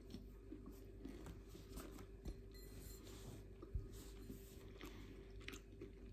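Quiet chewing of a brioche: soft, scattered mouth sounds with a couple of small sharper clicks, over a faint steady low hum.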